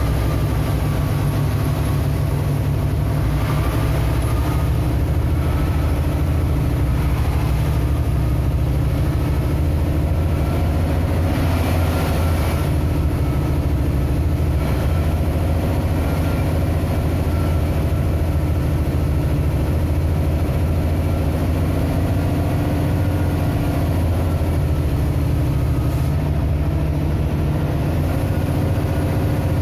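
A vehicle's engine running steadily, a continuous low hum with fainter higher tones above it.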